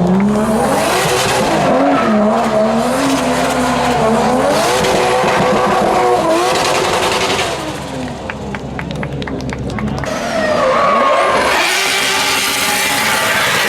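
Drift car engine revved hard, its pitch rising and falling again and again, with bursts of tyre squeal as the car slides. It eases off about eight seconds in, then a loud burst of engine and tyre noise picks up again near the end.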